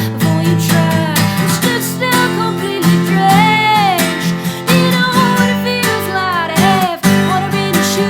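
Acoustic guitar strummed in a steady rhythm, with a woman singing long, sliding notes over it.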